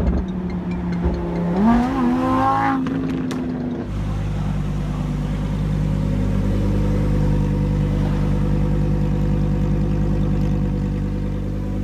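Supercar engine running, with a short rise in revs about two seconds in. Just before four seconds in the sound changes abruptly to a steady, even engine drone.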